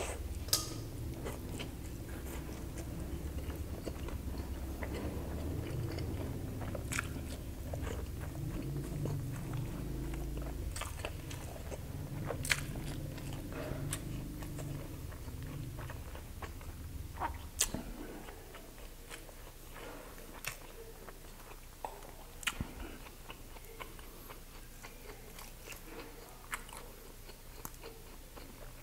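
Close-up chewing of a mouthful of grilled skewered street food, with sharp mouth clicks now and then. After about 17 seconds the chewing dies down and only scattered clicks are left, as grilled meat is pulled apart by hand.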